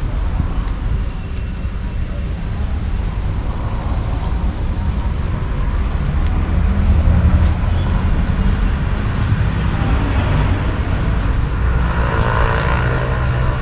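Steady low rumble of motor-vehicle noise, growing louder with a rush of higher noise near the end.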